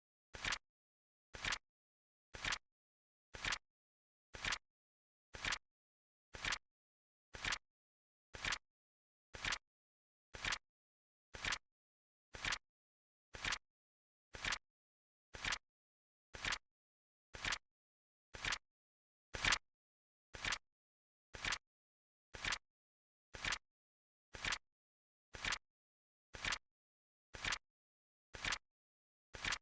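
Flip clock countdown timer's flip sound effect: a short, sharp click exactly once a second, evenly spaced, with silence between. One click about two-thirds of the way through is a little louder.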